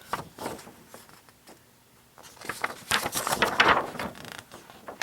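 Paper brochure pages being handled and turned, rustling in irregular bursts, with the longest run of rustling from about two and a half to four seconds in.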